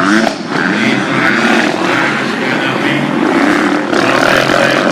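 Motocross motorcycle engines running at high revs, several bikes overlapping, with a short rise in pitch near the start.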